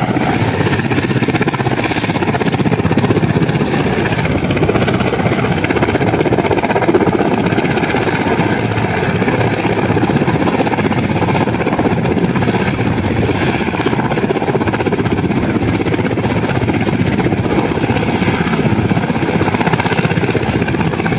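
Helicopter running steadily: a fast rotor chop under a dense rushing noise, holding an even level throughout.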